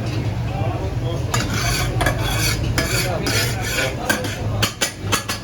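A metal utensil stirring and scraping in a pan in irregular strokes, with a few sharper clacks near the end, over a steady low hum.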